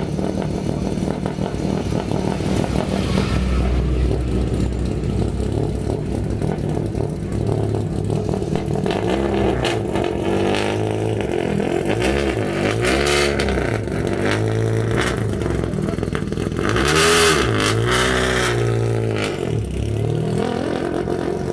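Ford Escort Mk2 rally car engine running unevenly at low revs, then blipped repeatedly from about nine seconds in, the revs rising and falling several times, with a few sharp cracks among them. The biggest rev comes near the end.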